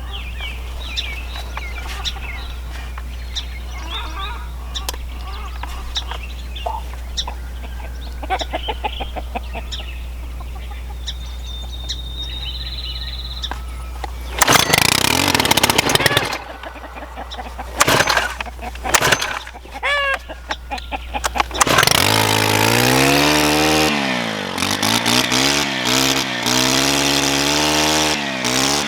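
Gas string trimmer being started: a few loud noisy tries, then its small engine catches about three-quarters of the way through and revs up and down. Before that, chickens clucking and birds calling over a steady low hum.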